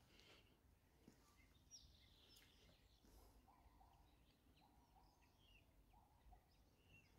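Near silence with faint, scattered bird chirps and short calls.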